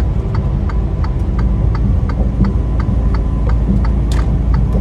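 Semi-truck cab on the highway: steady low engine and road rumble, with a light regular ticking about four times a second over it.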